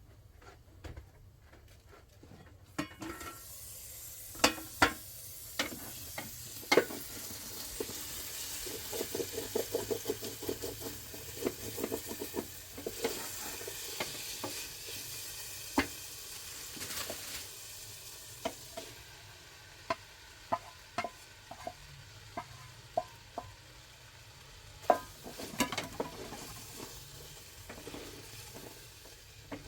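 Food sizzling as it fries in a pan, starting about three seconds in, while it is stirred with a utensil that clicks and knocks against the pan now and then.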